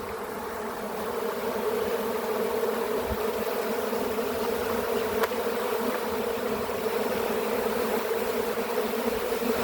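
A large swarm of honey bees buzzing in a steady, dense drone of many wings, swelling slightly over the first couple of seconds.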